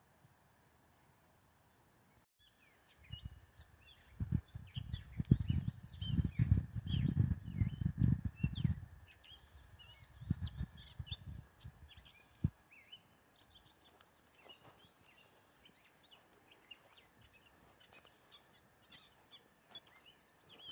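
Songbirds chirping, many short high calls overlapping through most of the stretch over a faint steady high hum. From about three to twelve seconds in, loud irregular low rumbling buffets the microphone.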